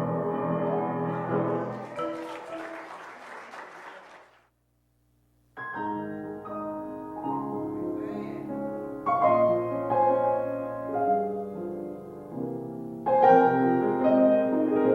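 Instrumental music ends about two seconds in, and a short burst of noise dies away after it. After about a second of silence, piano music starts and plays on in chords.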